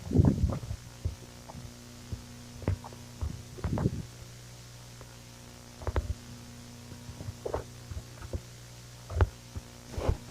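Steady low electrical hum with a few dull, irregularly spaced thumps and knocks.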